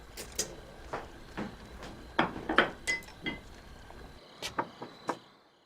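Dishes and utensils clinking and knocking at a table: a dozen or so scattered light taps, one with a short ring, over a low background hum that cuts off about four seconds in.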